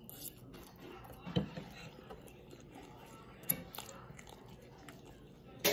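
A person chewing a mouthful of pancake with soft, wet mouth noises, broken by three short sharp clicks, the loudest near the end.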